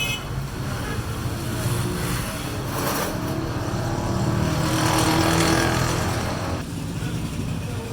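Honda 125 Deluxe's single-cylinder four-stroke engine running, swelling louder through the middle as it is revved and then dropping back about two-thirds of the way in.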